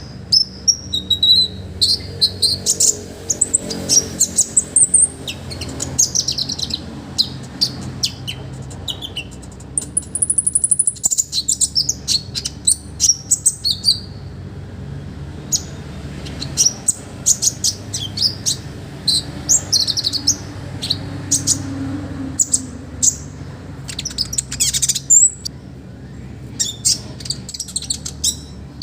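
Kolibri ninja (konin) sunbird singing energetically: sharp, very high chirps, quick trills and falling sweeps in rapid bursts, with a brief lull about halfway through. A steady low hum runs underneath.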